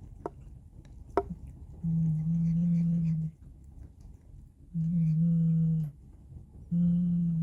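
A cat's low, drawn-out growl, three times, each over a second long, the warning sound of a cat tense at another cat. A couple of light clicks come near the start.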